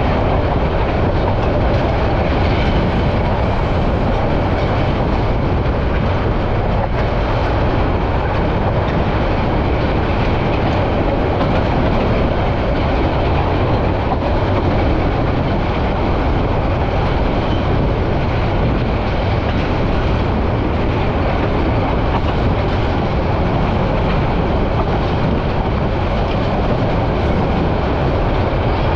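Passenger train running steadily along the line, heard from aboard the coach: an even rumble of wheels on rails and carriage noise.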